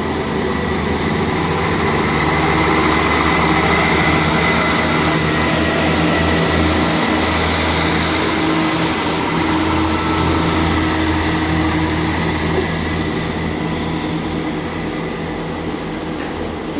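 Diesel train's engines running loudly at close range: a steady low drone with a thin high whine over it, easing off slightly toward the end.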